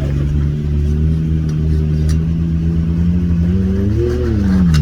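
Can-Am Maverick X3's turbocharged three-cylinder engine held at steady revs, then revving up about three and a half seconds in and dropping back near the end, as the UTV tries a burnout on wet dirt.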